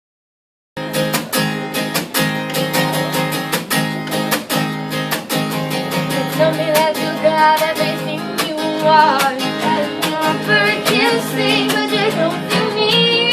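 Song intro: acoustic guitar strumming chords in a steady rhythm, starting just under a second in. A wavering melody line joins it around six seconds in.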